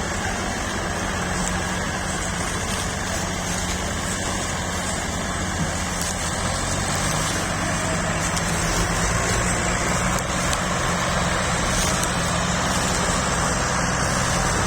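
Tractor diesel engines running steadily under heavy load as they pull a loaded trolley, getting a little louder about eight seconds in.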